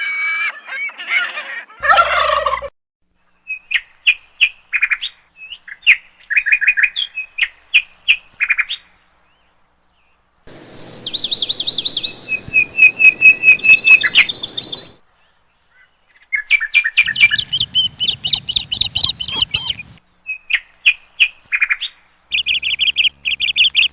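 Bird calls in several spliced segments: rapid series of short, high chirping notes and trills, each segment cutting in and out abruptly with a different background hiss, with brief silences between them.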